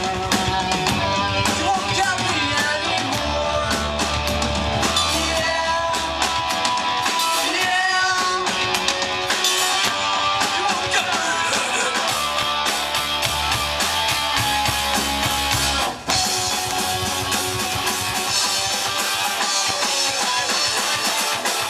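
Punk rock band playing live: distorted electric guitars, drum kit and shouted vocals. The sound drops out for an instant about three-quarters of the way through.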